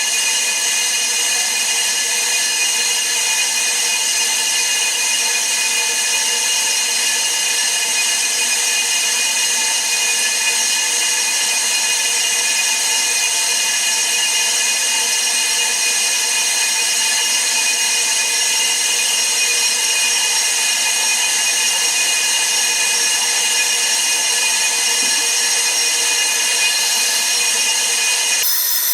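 Brake-disc lathe running steadily with a constant high whine, resurfacing a brake rotor.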